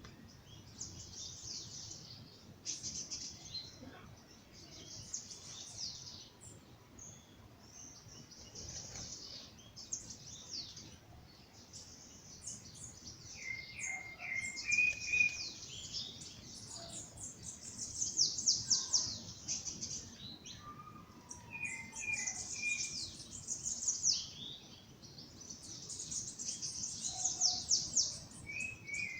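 Several songbirds singing together in a dawn chorus: dense, rapid high chirps and trills throughout, with some lower whistled notes in places.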